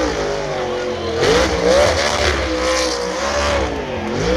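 NASCAR Cup Series stock cars' V8 engines racing past at Martinsville, several engine notes overlapping, their pitch dipping and rising again and again as the cars brake and accelerate.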